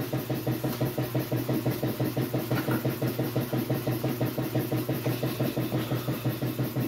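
Dual action sander running against the primed steel panel of a truck box, a loud racket with a steady hum and an even pulsing about six times a second. It cuts off abruptly at the end.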